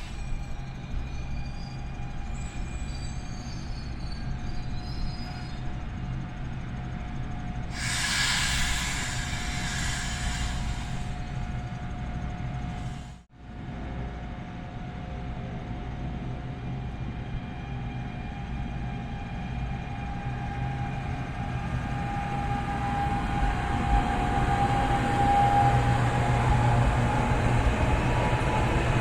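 NJ Transit commuter train running with a steady low rumble and a burst of hiss about eight seconds in. After a brief dropout the sound grows louder toward the end as the train draws closer.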